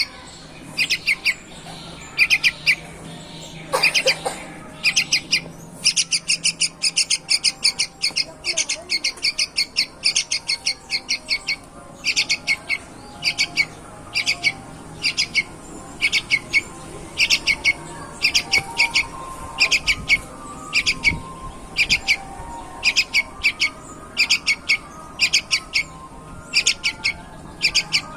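Yellow-vented bulbul (trucuk) calling in short bursts of rapid, high chirps, repeated over and over with brief gaps.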